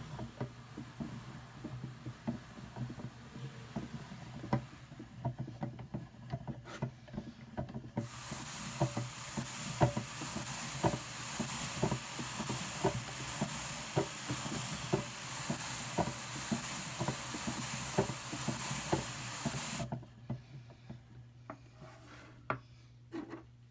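Hand-cranked Brother drum carder with fine carding cloth working red Targhee wool: regular clicks of the turning mechanism, about two a second. A loud brushing hiss of the wool through the carding cloth comes in about a third of the way in and stops suddenly near the end, leaving the sparser clicks.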